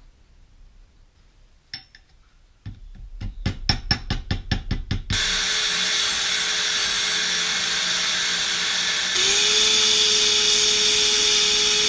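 A quick run of hammer taps on the old steel heater-tube Y piece, about five a second, then a power tool starts and runs steadily. About four seconds later its whine rises and holds at a higher, louder pitch.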